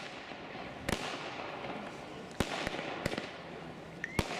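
Fireworks battery (Dragon Diamonds cake) firing: sharp bangs of bursting shells roughly every second, with crackling between them and a brief whistle just before the last bang.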